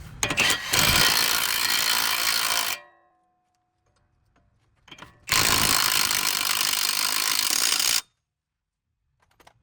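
Power tool in a car-repair shop running in two sharp-edged bursts, the first about two seconds long and the second nearly three, with a short metallic ring after the first burst cuts off.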